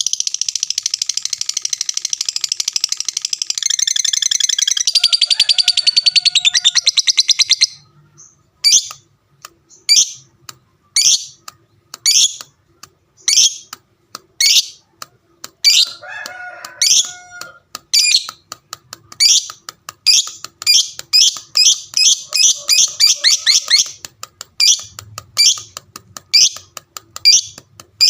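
Lovebird chattering (ngekek) with a long, rapid trill of high notes for about eight seconds, then single sharp chirps roughly once a second. Another fast run of notes comes about twenty seconds in.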